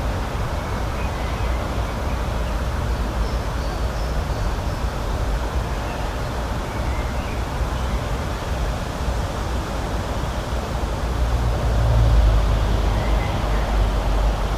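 Spring nature ambience: a steady rushing noise with a deep rumble that swells slightly near the end, and a few faint, short, high bird chirps scattered through it.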